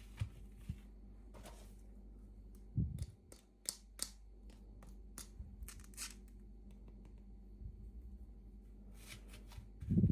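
Toy packaging being handled and opened: scattered clicks, rustles and tearing, with a soft thump about three seconds in and another near the end.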